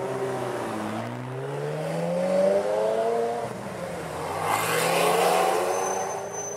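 Ferrari sports car engine accelerating hard, its pitch rising steadily, dropping as it shifts up about three and a half seconds in, then rising again to its loudest about five seconds in.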